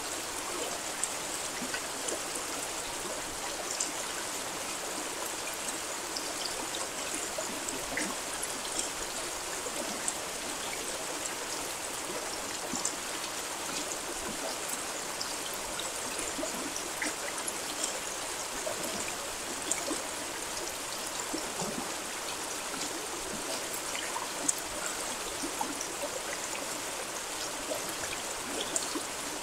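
Steady rain falling: an even hiss with many small scattered ticks of individual drops.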